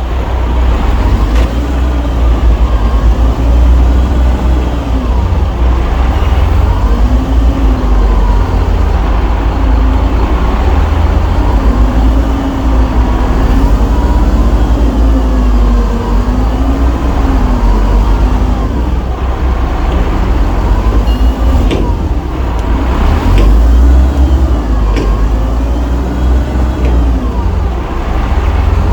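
Shantui bulldozer's diesel engine working under load, a loud low rumble whose pitch rises and falls again and again every couple of seconds. A few sharp knocks come in the second half.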